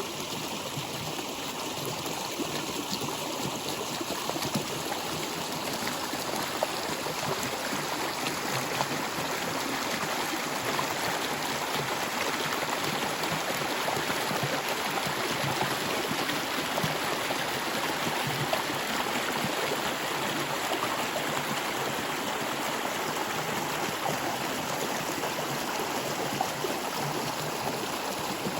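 Stream water flowing steadily over rocks, an even rushing with small splashes and gurgles.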